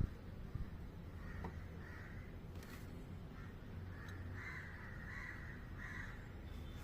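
Crows cawing: a few short, harsh caws, most of them in the second half, over a steady low rumble.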